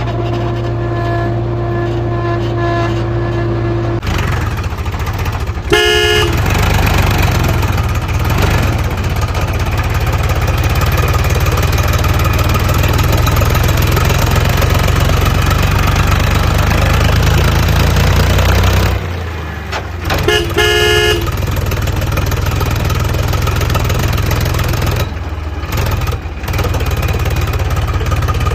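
Heavy vehicle engine sound effect running steadily, getting louder about four seconds in. A vehicle horn honks briefly twice, about six seconds in and again about twenty seconds in.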